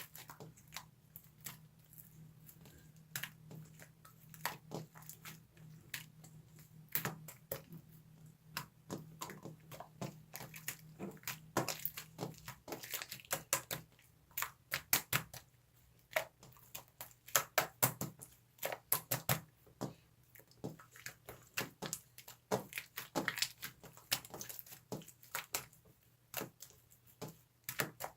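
Slime being squeezed and pressed by hand, giving irregular sticky clicks and small pops, coming faster in the second half.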